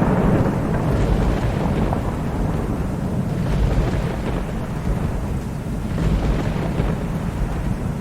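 Thunderstorm: steady rain hiss under a long, rolling rumble of thunder that swells and eases several times without dying away.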